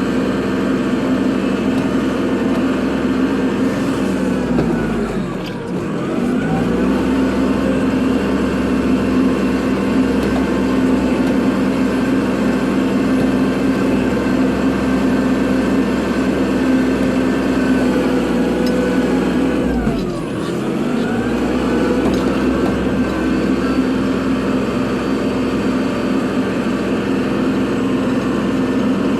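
Kubota tractor's diesel engine running at steady high revs, dipping in speed and climbing back twice, about five seconds in and again about twenty seconds in.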